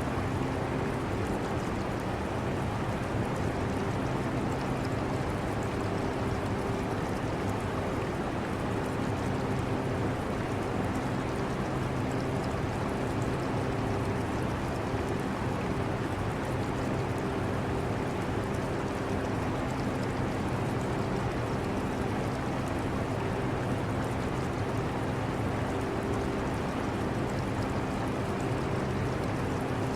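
Portable air conditioner running with a steady hum, mixed with the running water of an aquarium.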